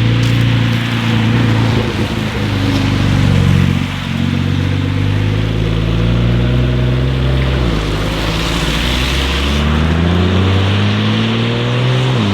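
Porsche 992 Carrera S twin-turbo flat-six accelerating: its note climbs steadily in pitch, drops at a gear change past the halfway point, then climbs again, over steady wind and road noise.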